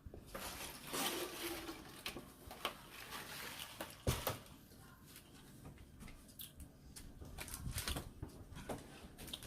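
Close-up eating sounds: chewing and wet mouth noises with scattered small clicks, and a sharper click about four seconds in.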